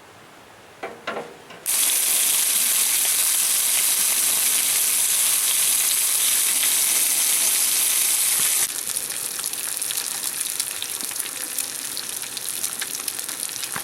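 Food frying in a pan: a sudden loud, steady sizzle starts about two seconds in, then drops to a quieter crackle with many small pops.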